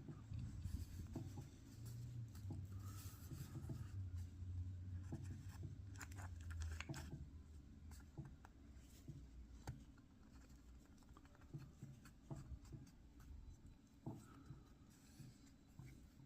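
Faint, scattered clicks and taps of small carburetor parts being handled during reassembly, over a low hum that fades out about halfway through.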